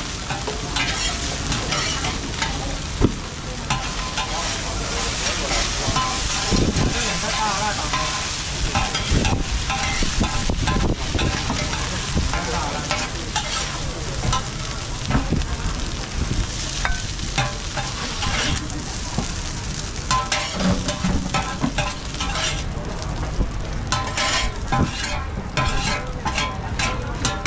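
Oyster omelette sizzling on a large flat pan while two metal spatulas scrape, chop and clack against the pan surface. The spatula strikes come thicker near the end as the omelette is scooped up.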